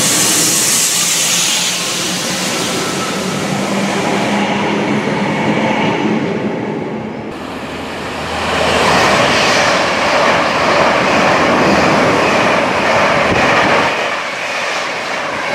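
A Northern electric multiple unit pulls away with a steady motor hum that fades. About eight seconds in, an Avanti West Coast Class 390 Pendolino electric train passes close at speed on the fast line: a loud rushing roar of wheels on rail, dying away near the end.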